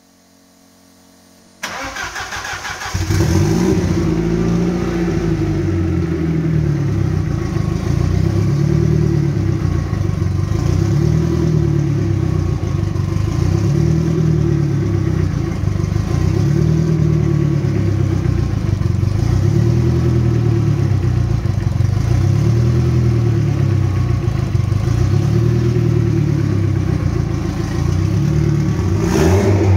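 Audi 1.8T 20-valve turbocharged inline-four engine with a big Precision turbo being started: a short crank about two seconds in, catching about a second later, then idling loudly with a rhythmic rise and fall about every second and a half.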